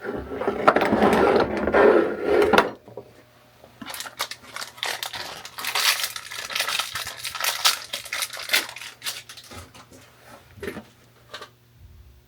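A loud rough scraping for the first two and a half seconds. Then, from about four seconds in, a long run of irregular metallic clinks and clatter as galvanized steel pipe fittings are handled and knocked together.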